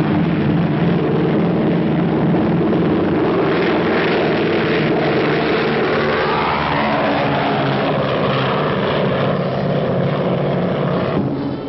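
Piston engines of a four-engine Douglas DC-6 propeller airliner running steadily at a loud, even level, with a throbbing engine note under the noise of the propellers. About halfway through, a higher tone comes in and seems to rise.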